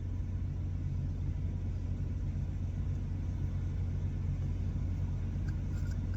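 Steady low rumble of an idling truck engine, unchanging throughout, with a couple of faint ticks near the end.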